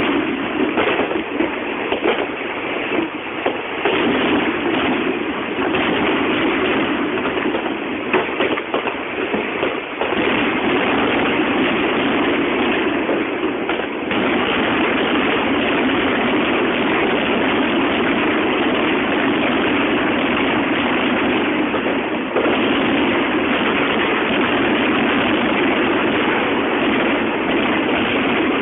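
Aerial fireworks going off in rapid succession, heard through a mobile phone's microphone: separate bangs in the first several seconds run together into a dense, continuous rumble of bursts that gets louder twice.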